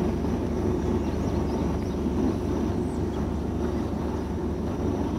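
A steady low rumble with no clear events, even in level throughout.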